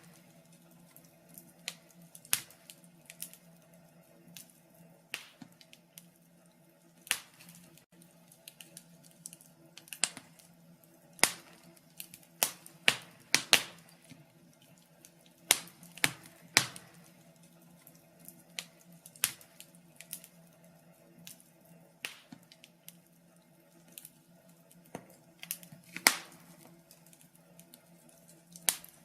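Wood fire in a fireplace crackling, with irregular sharp pops and snaps spaced anywhere from a fraction of a second to a few seconds apart.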